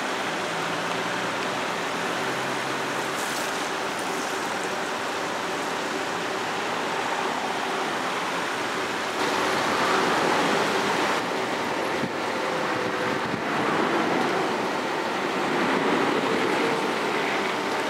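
TGV high-speed trainsets rolling slowly along the depot tracks: a steady rushing rumble of wheels on rail, with faint steady tones and a slight rise in loudness about halfway through.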